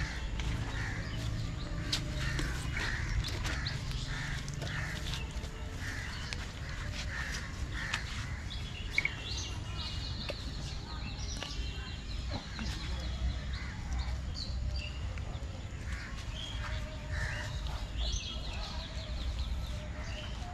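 Birds calling: a run of harsh repeated calls, about two a second, for the first eight seconds or so, then a buzzy trill twice later on. Scattered light clicks and a steady low rumble sit underneath.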